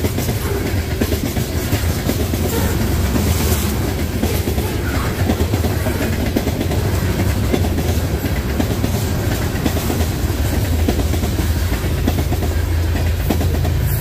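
Freight cars of a CP/CPKC train rolling past at close range: a loud, steady rumble with the clickety-clack of wheels over the rail joints.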